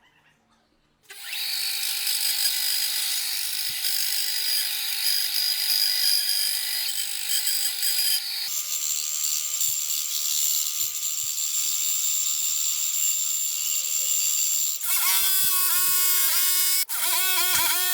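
An electric power tool starts about a second in and runs with a steady high whine. Its tone shifts partway through, and near the end the pitch wavers up and down, broken by a brief cut-out.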